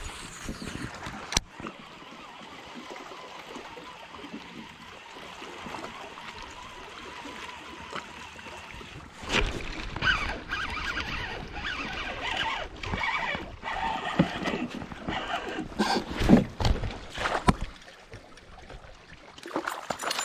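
Sounds of handling on a kayak: for the first several seconds a steady wash of water with a single click, then from about 9 seconds in a run of irregular knocks, bumps and rustles of gear against the hull.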